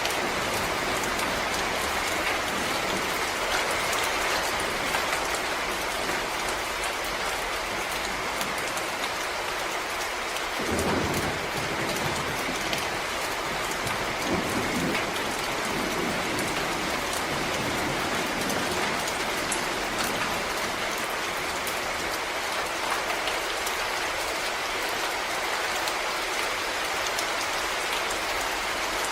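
Steady rain falling on forest leaves and ground, an even hiss of drops. A low rumble comes and goes between about ten and eighteen seconds in.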